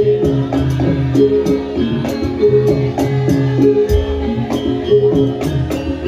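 Javanese gamelan music for a lengger mask dance: tuned metal instruments play a repeating melody over regular drum strokes, with a deep low stroke about four seconds in.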